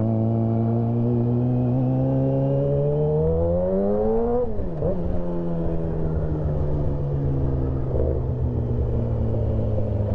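2008 Yamaha R6's inline-four engine running through a stainless full exhaust system with an SC Project muffler. It holds a steady note, revs up over about two seconds, drops sharply in pitch a little before halfway through, as at a gear change, then runs steady again.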